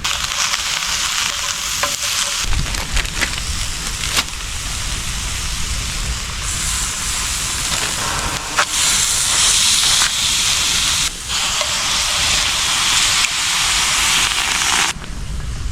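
Venison frying in a pan over a campfire, sizzling steadily, with a few sharp clicks of a utensil stirring. The sizzle grows louder about halfway through and cuts off abruptly a couple of times.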